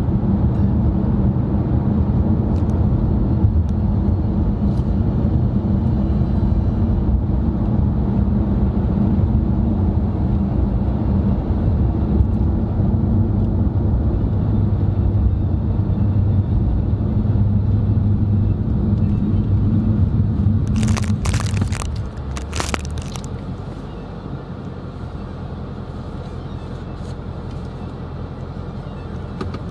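Steady low drone of a car's engine and tyres heard from inside the cabin. About three-quarters of the way through, a few brief sharp noises are heard, then the drone drops and continues as a quieter hum.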